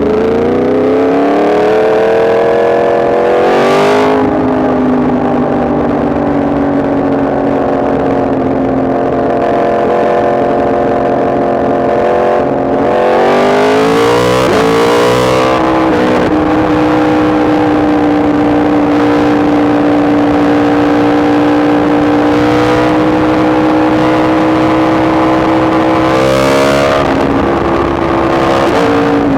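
Yamaha MT-10 SP's crossplane inline-four engine pulling under acceleration, then upshifting three times, with a brief break and drop in revs at each shift. Between the shifts it holds steady engine speed while cruising.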